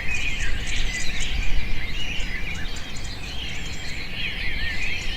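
Birdsong ambience: many short chirping and twittering bird calls overlapping, with a quick ticking insect chirp, like a cricket's, higher above.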